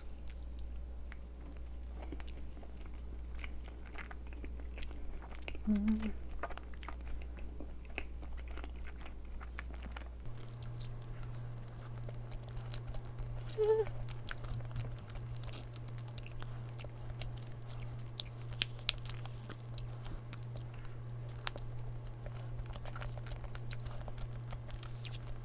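Close-up chewing of a soft cream-filled chestnut roll cake, with many small wet mouth clicks and light bites. Under it runs a steady low hum that shifts to a higher pitch about ten seconds in.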